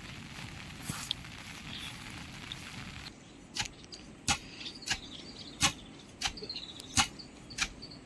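Steady rain hiss. About three seconds in it gives way to a run of sharp, evenly paced knocks, roughly one every two-thirds of a second, with faint high chirps between them.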